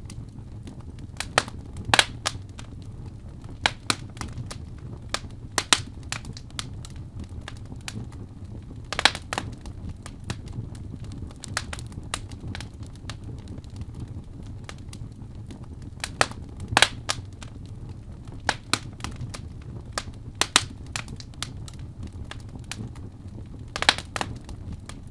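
Fire in a fireplace crackling: sharp, irregular pops, several a few seconds apart, over a steady low rumble of the flames.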